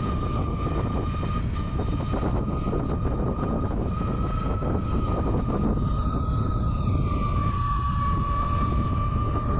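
Electric bike's 500 W motor whining at a steady high pitch under full throttle, dipping slightly late on, over heavy low wind and road rumble from riding at speed.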